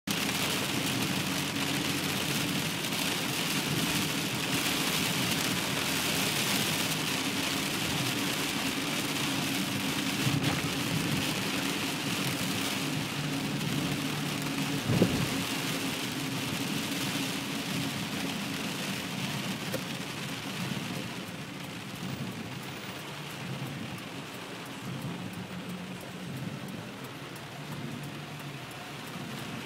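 Heavy rain drumming on a car's roof and windshield, heard from inside the cabin as a dense steady hiss over a low steady hum. There is one sharp knock about halfway through, and the hiss thins somewhat in the last third.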